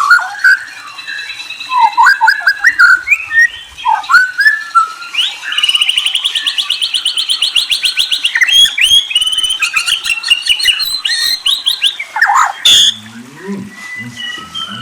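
A murai songbird singing a varied run of loud whistles and short phrases, with a long rapid trill in the middle. A brief lower-pitched sound comes near the end.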